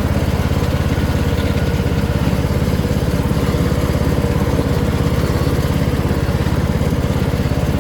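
Troy-Bilt riding lawn mower engine running steadily as the mower is driven along.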